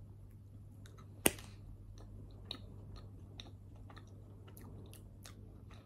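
Someone chewing a jelly bean with the mouth closed: soft, irregular wet clicks and smacks, one sharper click about a second in, over a low steady hum.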